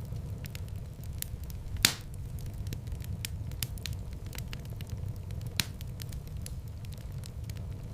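Wood fire in a fireplace burning with a steady low rumble of flames and constant light crackling. Two louder pops stand out, a little under two seconds in and again past five seconds.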